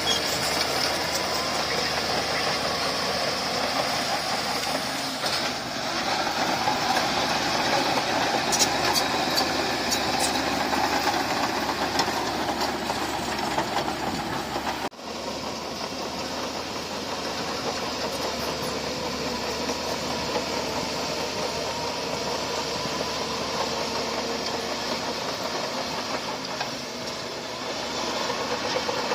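Bulldozer's diesel engine running steadily. About halfway through, the sound breaks off abruptly and then carries on slightly quieter.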